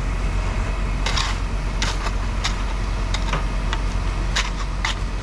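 A steady low engine hum, with about eight sharp clicks and taps scattered through it.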